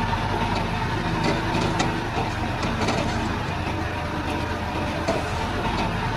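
Komatsu D31-P bulldozer's diesel engine running steadily, with scattered metallic clinks from the machine at work.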